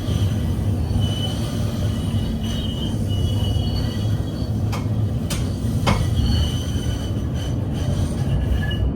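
Interior of a PKTS 71-931M Vityaz-M tram running along the track: a steady low rumble with a high-pitched squeal from the wheels on the rails that comes and goes. Three sharp clicks sound about halfway through.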